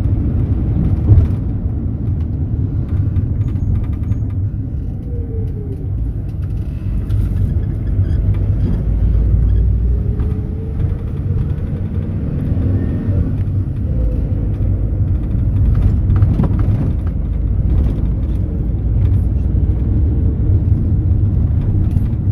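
Mercedes-Benz Sprinter minibus heard from inside the cabin while driving: a steady low engine and road rumble, with a faint whine that falls and rises in pitch and a sharp knock about a second in.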